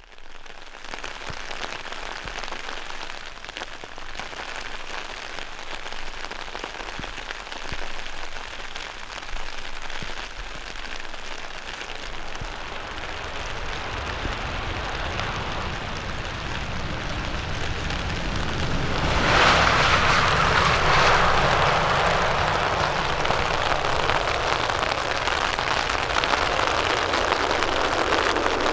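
Jet engine noise from a four-engine Boeing 747 airliner, a continuous rushing roar. It deepens from about halfway through and becomes much louder about two-thirds of the way in.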